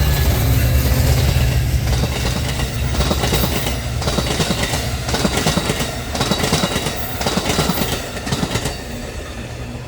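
A train passing close by: a heavy low locomotive rumble at first, then wheels clacking over rail joints in an uneven string of strokes, fading as the train moves off.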